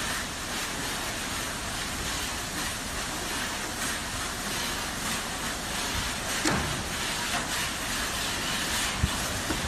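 CC 690 tunnel car wash running: a steady hiss of water spray and machinery, with a few short knocks in the second half.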